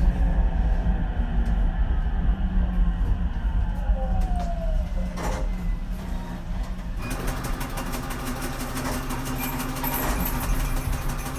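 Ichibata 7000-series electric railcar heard from inside as it slows: wheel and motor rumble with a falling electric-motor whine. About seven seconds in the running noise gives way abruptly to a brighter hiss with rapid fine ticking.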